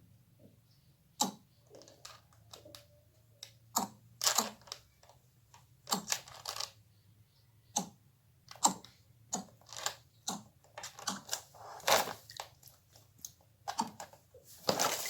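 Irregular sharp taps and clicks, some two dozen, with a few short rustling scrapes among them; the loudest come about nine and twelve seconds in and at the very end.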